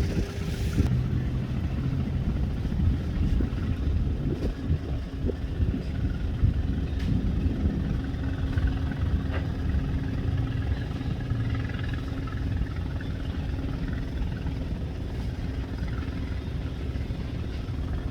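Fast passenger boat's engines running steadily: a continuous low rumble with a steady hum over it.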